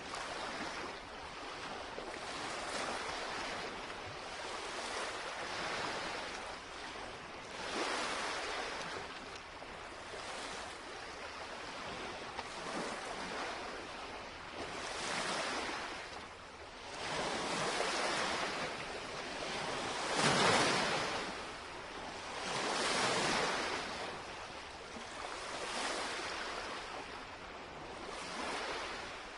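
Small lake waves lapping and washing against the shoreline, in repeated swells a few seconds apart, a few of them stronger, the strongest about two-thirds of the way through.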